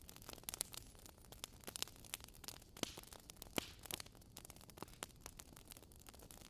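Wood fire crackling in a fireplace: irregular small snaps and pops over a soft hiss, the sharpest pop about three and a half seconds in.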